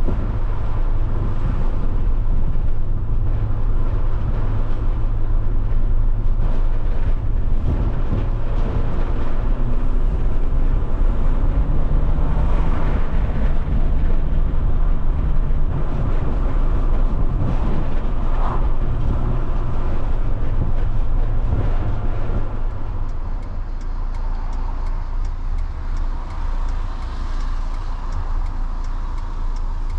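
Alfa Romeo 156 SW's 1.8 Twin Spark four-cylinder petrol engine running on the move, with road and tyre noise. The engine note steps up a little about twelve seconds in, and the sound drops somewhat in level about twenty-two seconds in.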